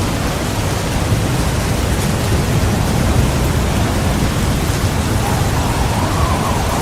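Heavy rain pouring steadily, with a low rumble of thunder underneath.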